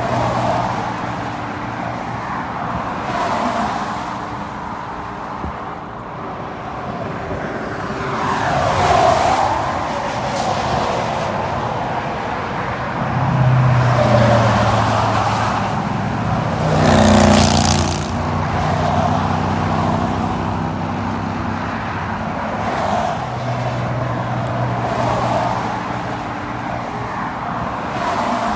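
Vehicle driving on a highway: steady engine and road noise, with other vehicles passing now and then. The loudest pass comes about two-thirds of the way through.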